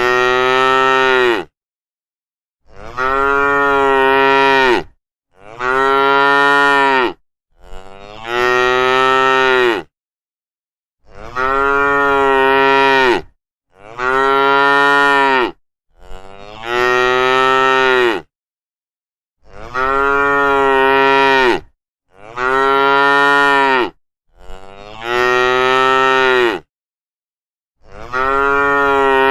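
Cattle mooing over and over: about eleven long moos, each roughly two seconds, with dead silence between them.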